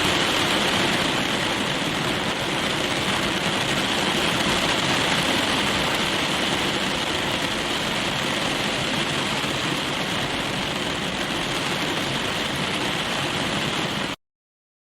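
Steady heavy rain drumming on a car's roof and windows, heard from inside the cabin, as an even hiss that stops abruptly near the end.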